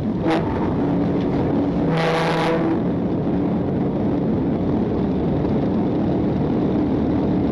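Patrol car driving at high speed: a steady rush of engine, tyre and wind noise, with a brief sharper sound about two seconds in.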